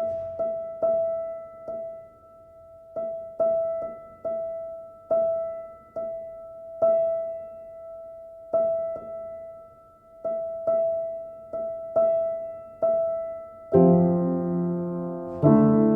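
Piano music: a single note struck again and again in a loose, uneven rhythm, each strike ringing out and fading. Fuller low chords come in near the end.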